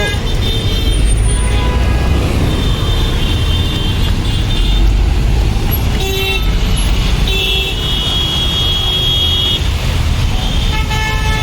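Busy road traffic: engines running under a steady low rumble, with vehicle horns honking several times, the longest blast held for about two seconds past the middle.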